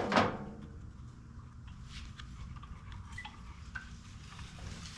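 A sharp clack of hard parts knocking together right at the start, then light scattered clicks and clinks as the disassembled backpack blower's parts are handled on the bench.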